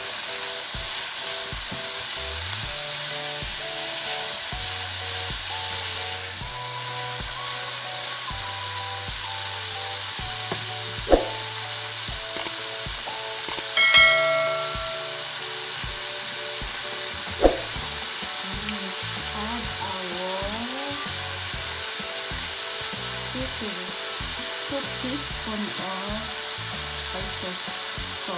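Scallops and asparagus stir-frying in a hot ceramic-coated pan: a steady sizzle as the food is stirred with a silicone spatula, a few sharp clicks, and a short bright chime about halfway through, over soft background music.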